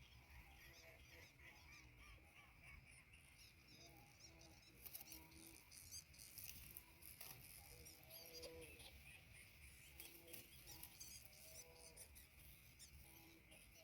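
Faint, short, low calls repeated irregularly, the kind of hoarse honking note a greater coucal gives at the nest, over high chirps of small birds and a steady insect buzz.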